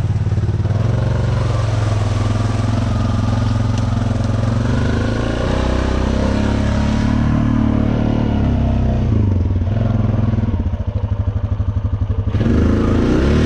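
Honda Rancher 420 ATV's single-cylinder four-stroke engine running under changing throttle. About ten seconds in it drops to a slow, lumpy idle with each firing pulse audible, then picks up again near the end.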